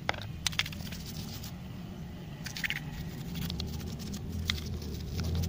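Scattered light clicks, taps and short scrapes of hand work on a scooter's rear brake caliper during cleaning and a pad change, over a low steady hum that grows louder near the end.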